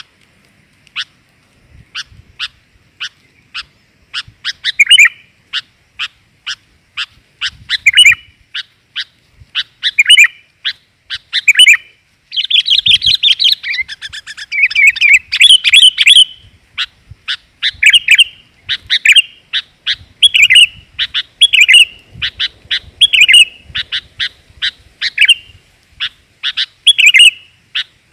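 Female sooty-headed bulbul (kutilang) calling, the voice used as a lure for males. It is a run of short, sharp chirps about two a second, mixed with fuller chattering phrases. The chatter runs continuously for a few seconds about halfway through.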